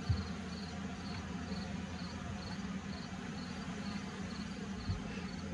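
Steady low buzzing of honey bees around the open hive, with a high insect chirp repeating about twice a second. A couple of soft knocks from frames being handled, one near the start and one about five seconds in.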